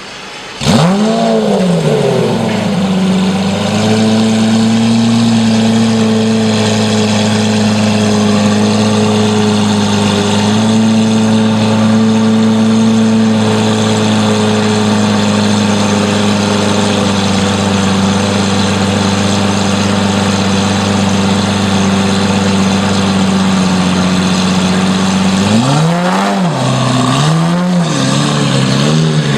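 Lamborghini Murcielago SV's V12 engine firing up under a second in with a quick flare in revs that settles into a steady idle. Near the end it is blipped through three or four short rev rises and falls.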